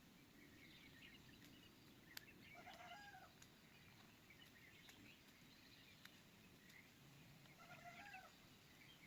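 Near silence, with two faint animal calls, one about a third of the way in and one near the end, and a few faint clicks.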